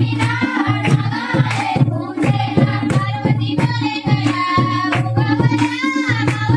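A Marathi folk song sung with a wavering, ornamented melody over a steady low drone, with drum strokes keeping an even beat throughout.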